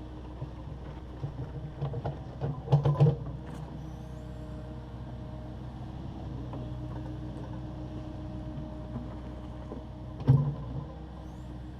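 Takeuchi TB260 excavator running steadily, with a quick cluster of loud knocks about three seconds in and another sharp knock near the end.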